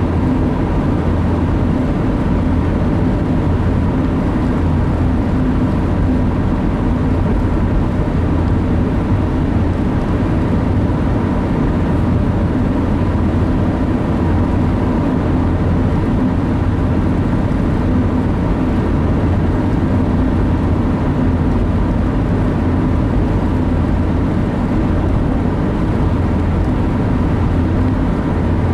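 Steady cabin noise of a car being driven: an even drone of engine and tyres on the road, with a low hum that holds steady throughout.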